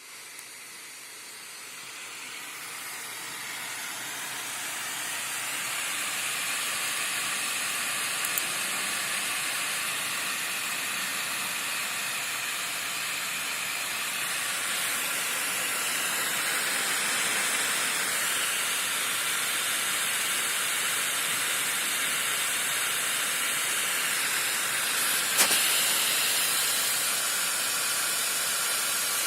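Laptop cooling fan spinning up over the first several seconds, then blowing as a steady loud hiss. Two short clicks are heard, one about a third of the way in and one near the end.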